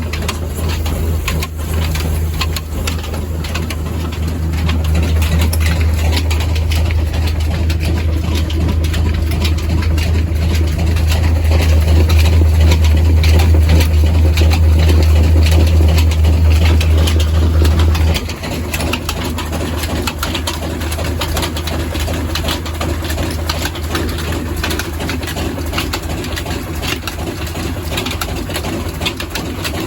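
Old Ruston Hornsby slow-speed diesel engine running, with a steady rapid knocking. A loud low hum under it grows louder and then cuts off suddenly about 18 seconds in, after which the engine runs on more quietly.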